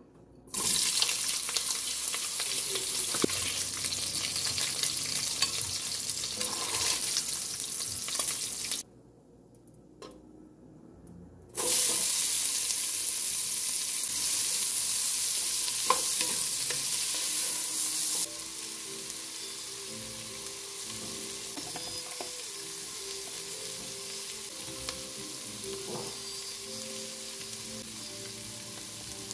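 Sliced sausage and then chopped onion, celery and bell pepper sizzling in hot oil in a pot. The loud sizzle breaks off about nine seconds in, returns about three seconds later, and drops to a quieter steady sizzle for the last ten seconds or so.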